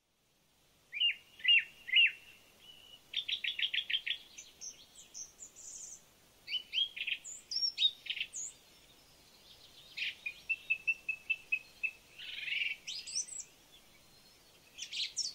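Several songbirds chirping and calling in turns: three loud chirps about a second in, then quick runs of repeated notes and trills with short pauses between them.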